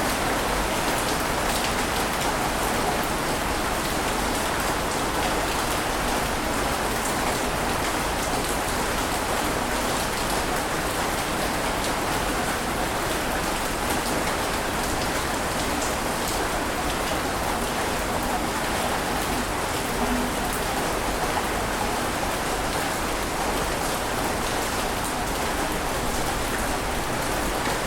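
Steady water noise, an even hiss dotted with fine patter-like ticks. It stays at one level throughout, with no separate wave surges rising and falling.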